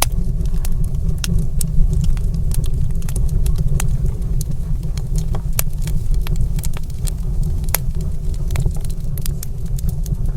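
Wood fire crackling in a fireplace: sharp, irregular pops and snaps several times a second over a steady low rumble.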